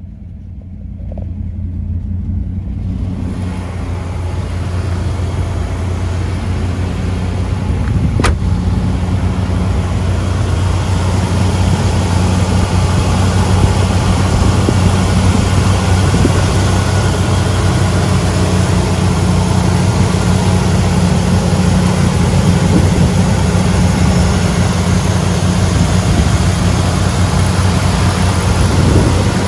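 1981 Chevrolet Camaro Z28's V8 running at a steady speed, its sound building over the first few seconds and then holding even, with a single sharp click about eight seconds in.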